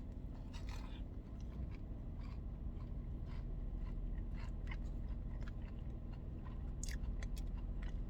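A person chewing food close to the microphone, with irregular soft crunches and bites.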